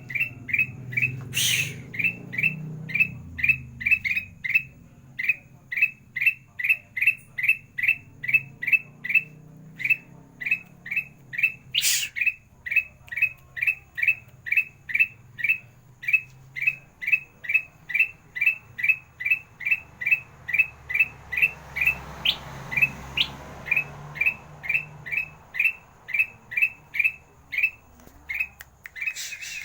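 Kutilang emas, a bulbul, calling one short, sharp rising note over and over, about two to three a second without a break. A sharp click sounds about a second and a half in and another about twelve seconds in.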